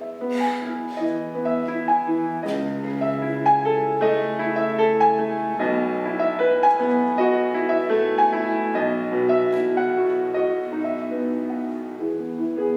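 Solo piano playing a melody over held chords and bass notes, as offertory music.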